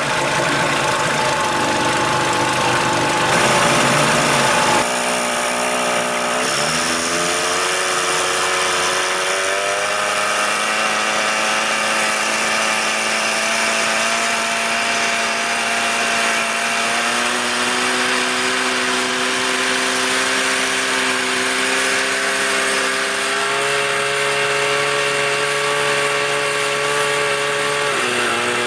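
A 1975 Evinrude 40 hp two-cylinder two-stroke outboard runs under way, its engine note rising and then shifting up and down in steps. It runs unevenly, which the owner takes for one cylinder misfiring. A loud rushing noise in the first few seconds cuts off suddenly.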